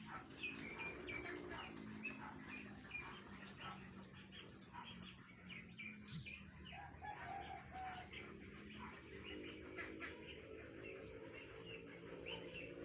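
Birds chirping, a steady run of many short high chirps, with lower drawn-out calls near the start and again near the end.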